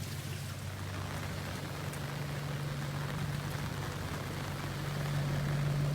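Steady rain falling, with a low steady hum underneath that grows a little louder near the end.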